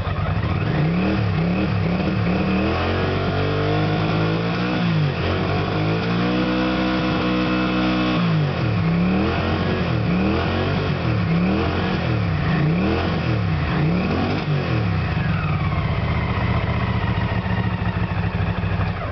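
Honda CX500-type V-twin motorcycle engine running and being revved: a series of quick throttle blips that rise and fall, a longer held rev in the middle, then settling to a steady idle near the end. It runs and revs cleanly on a substitute SDI ignition unit, showing the bike's wiring and connectors are good.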